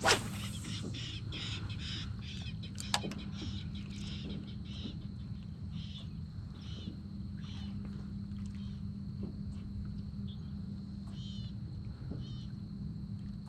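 A bird calling over and over in short calls, quickly at first and then more sparsely, over a steady low hum. A sharp knock sounds at the very start and another about three seconds in.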